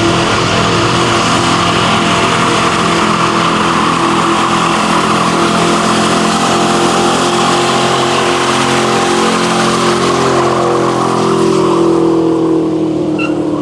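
Car engine held at high revs in a burnout, the rear tyres spinning and screeching against the pavement; near the end the revs start to fall.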